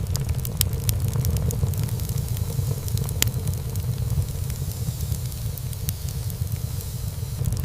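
Wood fire burning in a fireplace: a steady low rumble of flames with frequent sharp crackles and pops of burning wood, one louder pop about three seconds in.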